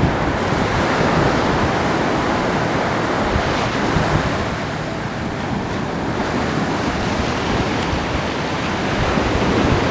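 Ocean surf washing continuously onto a beach, a dense steady rush that eases slightly about halfway through and builds again.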